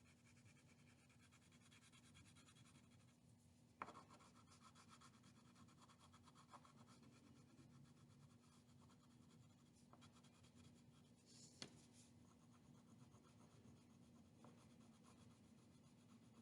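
Faint, steady scratching of a colouring tool being worked across paper, as an eagle puppet template is coloured in brown. There are two faint ticks about 4 s and 11.5 s in, over a steady low hum.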